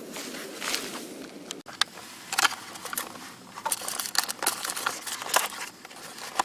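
Foil dehydrated-meal pouch crinkling and crackling in sharp, irregular bursts as it is handled while water is added, after a steady rushing sound in the first second and a half.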